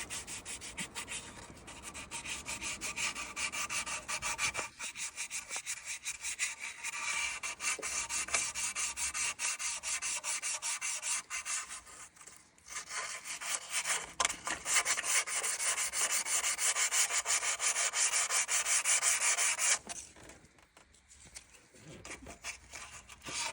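Sandpaper rubbed quickly back and forth by hand over a metal gasket surface on the engine, cleaning it for the new water pump. The scraping runs in fast, even strokes, breaks briefly about halfway through and stops for a couple of seconds near the end before starting again.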